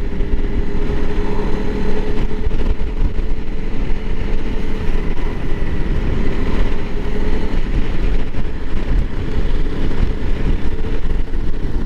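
Honda CRF300L Rally's single-cylinder four-stroke engine running steadily while the bike is ridden, with a constant rush of wind and road noise.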